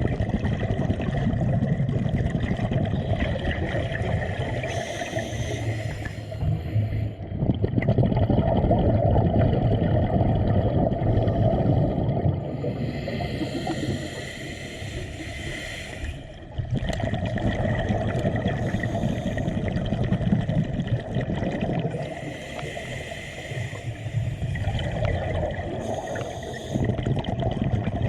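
Water gurgling and bubbling, which changes in character every few seconds.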